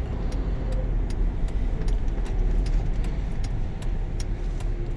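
Car driving, heard from inside the cabin: steady low engine and road rumble, with light clicks ticking about three times a second.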